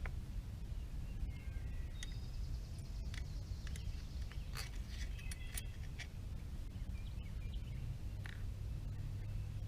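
Scattered sharp clicks and clinks from scooter parts and tools being handled while the wheel is fitted. Short high chirps come and go over a steady low rumble.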